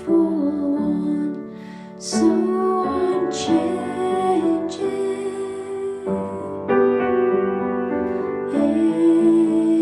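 A slow, gentle song: a singing voice over piano accompaniment.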